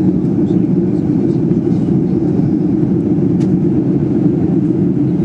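Steady low drone of engine and airflow noise inside the cabin of a Boeing 737-800 in flight, with one faint tick about three seconds in.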